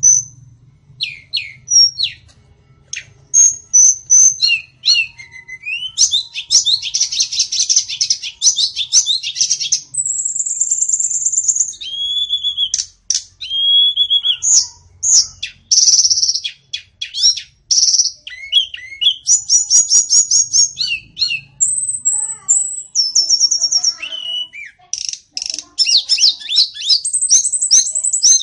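White-rumped shama singing a long, varied song of clear whistles, sliding notes and rapid trills and chatters, with phrases following one another almost without a break.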